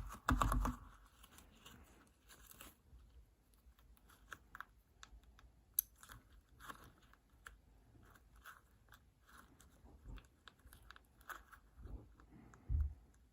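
A sticky 'frog egg' squishy being squeezed and pulled by hand: a louder squelch in the first second, then faint, scattered sticky crackles and clicks, with a short low thump near the end.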